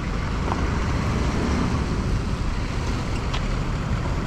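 Steady low rumble of road traffic and wind, with wind buffeting the microphone.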